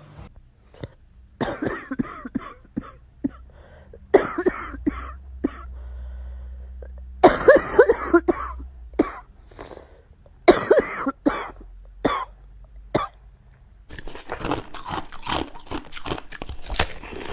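A talking bird making short bursts of rasping, cough-like calls and chatter, with clicks in between. Near the end the sounds turn into a longer run of harsh, scratchy noise.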